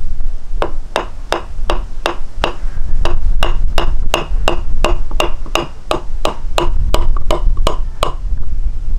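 Evenly paced knocking, about three strikes a second, each strike with a short pitched ring, over a steady low rumble. The knocking starts just after the beginning and stops about a second before the end.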